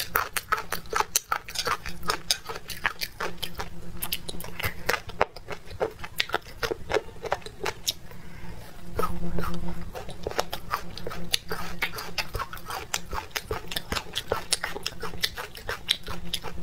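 Close-miked eating sounds: wet chewing of spicy, chewy food, with many irregular sharp clicks and smacks. A low steady hum runs underneath.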